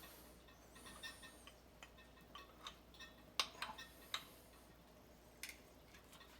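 Faint, irregular metallic clicks and light taps from hand tools and parts being worked on a B&G Series 100 circulator pump during disassembly. The sharpest clicks come about three and a half and four seconds in.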